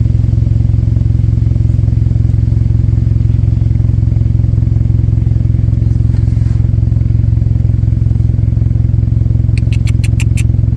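Engine idling steadily, a loud even low hum with a fast regular pulse. Near the end, a quick run of about seven high clicks.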